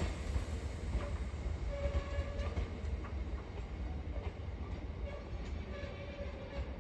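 Freight wagons of a GBRF class 66-hauled train rolling past: a steady low rumble with scattered clicks from the wheels, slowly getting quieter.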